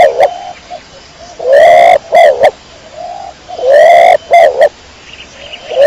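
Domestic pigeon cooing loudly. The call repeats about every two seconds, each a drawn-out coo followed by two short notes.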